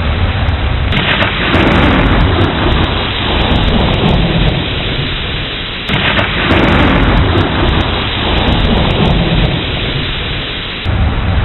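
Steady heavy rain with low rolling thunder rumbling under it. The sound shifts abruptly about a second in, again about six seconds in, and near the end.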